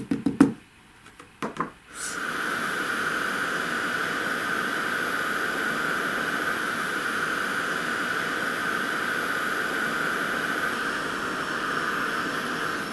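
A few sharp taps in the first two seconds, then an embossing heat gun switches on and blows steadily with a whine in it, heating white embossing powder to melt it.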